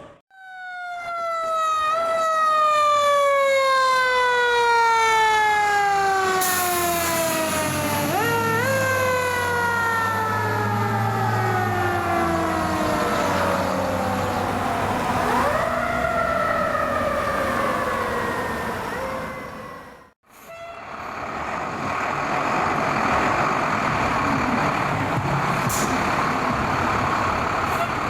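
A fire truck's mechanical siren winding slowly down in pitch, briefly pushed back up three times as it coasts, before fading out. After a cut, a steady noise without a clear pitch from passing traffic.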